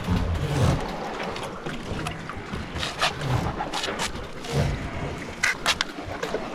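Wind buffeting the microphone in irregular low gusts, with a few sharp clicks or knocks about three, four and five and a half seconds in.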